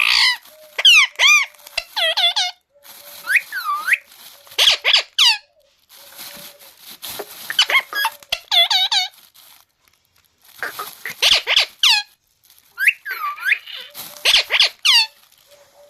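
Parrot whistling and chirping: bursts of quick sliding whistles and squeaky calls, rising and falling in pitch, with short pauses between them.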